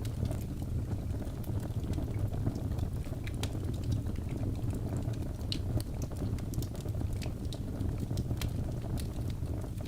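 Birch logs burning in a fireplace: a steady low rumble of the flames with frequent small, sharp crackles and pops scattered throughout.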